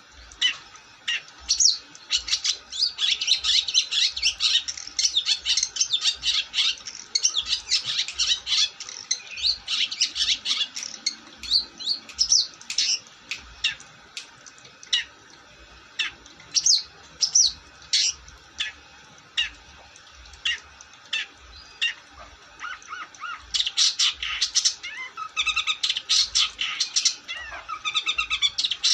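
Long-tailed shrike (cendet) singing vigorously in rapid runs of short, sharp chirps and squawks. The notes come thickest through the first third and again near the end, more sparsely in between.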